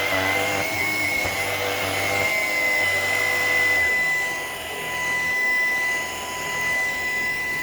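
Shark PowerDetect cordless stick vacuum running with a steady high-pitched motor whine. It briefly dips twice in the second half as it is pushed over low-pile carpet.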